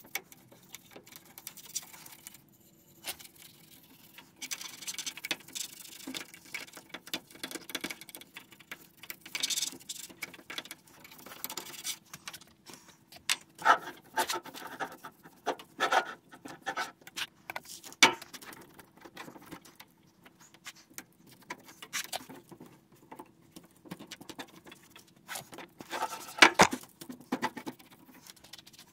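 Hand cleaning of a piece of electronic equipment: irregular scrubbing and scratching with sharp clicks and taps, the loudest clicks about 14, 18 and 26 seconds in, over a faint steady hum.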